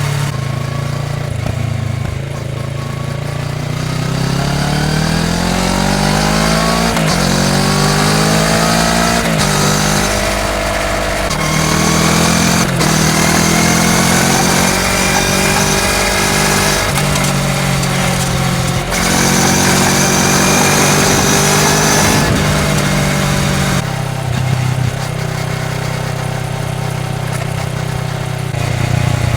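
Kawasaki Ninja 650's parallel-twin engine through a full Akrapovič exhaust system, ridden under acceleration: the engine note climbs in pitch, drops suddenly at a gear change, climbs again, then eases back and holds a steady lower note near the end.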